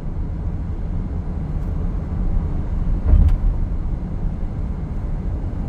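Car interior road noise while driving: a steady low rumble of tyres and engine, with a brief louder low swell about three seconds in.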